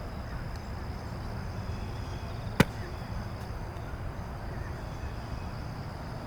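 A football smacks once, sharply, into a catcher's hands about two and a half seconds in, over a steady low outdoor rumble.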